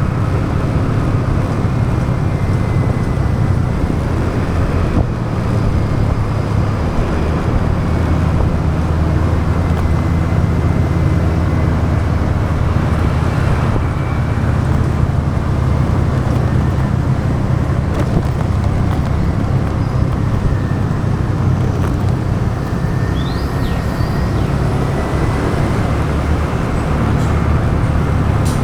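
Motorbike engine running steadily under way, with road and wind noise from the ride.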